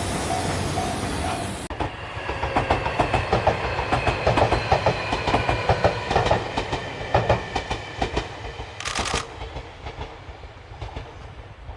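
Train wheels clacking over rail joints in an uneven rhythm, with a faint metallic ringing. It starts abruptly about two seconds in, after a steady rumble. There is a short hiss about nine seconds in, and the sound fades toward the end.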